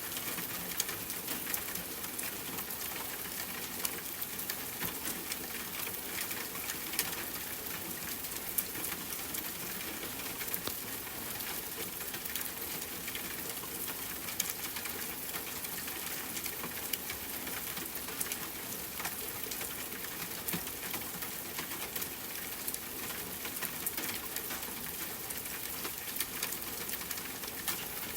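Steady rain falling, mixed with a campfire crackling: an even hiss with frequent small sharp pops scattered through it.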